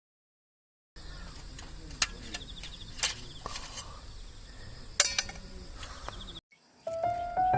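Quiet outdoor ambience with a few sharp pops or clicks, one about every second or two.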